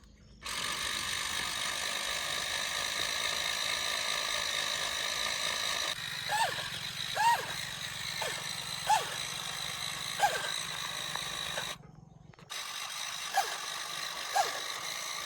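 A small electric motor and gearbox of a miniature RC tractor's rotavator whining steadily. About six seconds in, a low hum takes over, with short falling chirps roughly once a second.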